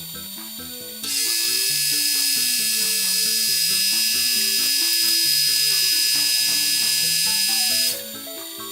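A small high-speed power tool runs steadily for about seven seconds as a high whine with a hiss, starting about a second in and cutting off abruptly, over background music.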